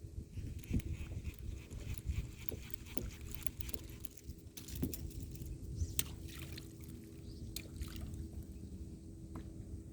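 Wind rumbling on the microphone and water lapping at a kayak, with scattered light clicks and knocks.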